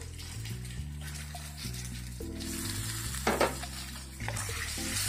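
Salted lemons sizzling in hot oil and chilli masala while a wooden spatula stirs them round a coated pan. The frying hiss swells in the second half, with a brief cluster of sharp scraping knocks of the spatula about three seconds in. Soft background music plays underneath.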